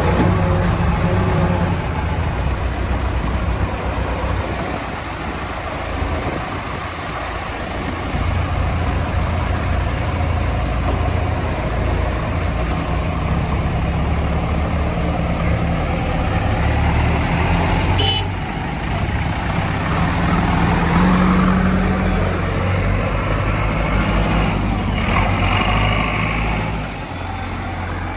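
Heavy diesel vehicle engine running, its low note shifting up and down now and then, with a single sharp click partway through.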